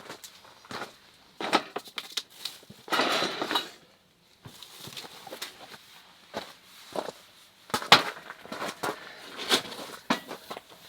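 Scattered light clicks, knocks and clinks of small objects being handled, with a short rustling burst about three seconds in.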